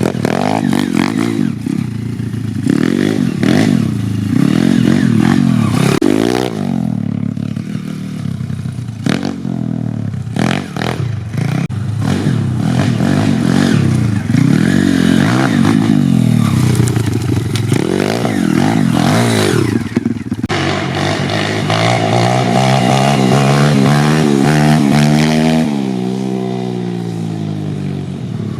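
YCF 150 Classic pit bike's 150cc four-stroke single-cylinder engine, raw and unmuffled-sounding, revving hard and repeatedly, pitch climbing and dropping every second or two as the throttle is blipped and opened wide. From about two-thirds of the way in it pulls one longer, steadier climb in pitch before backing off near the end.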